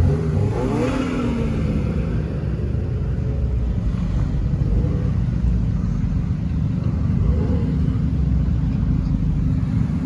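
Car engine revving, its pitch falling away during the first two seconds, over a steady low engine rumble.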